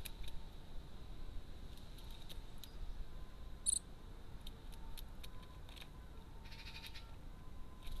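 Faint outdoor garden ambience with scattered small clicks, and a short high-pitched bird call about three and a half seconds in; a brief rasping sound follows near seven seconds.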